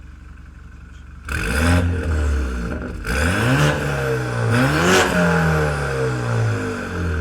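BMW 328i F30 with an aftermarket full exhaust. Its engine idles, then is revved hard about three times, the pitch climbing and falling each time, with the highest rev about five seconds in.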